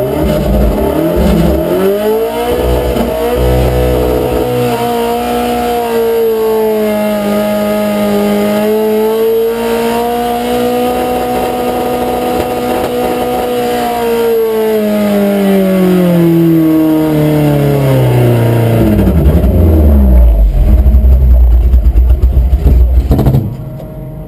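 Pulling truck's engine at full throttle hauling a weighted sled: the revs climb, hold high and steady, then fall slowly as the sled's load bogs the engine down. It ends in a very loud low rumble that cuts off abruptly about a second before the end.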